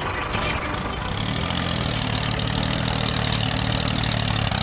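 An engine idling: a steady, even low hum that settles in about a second in.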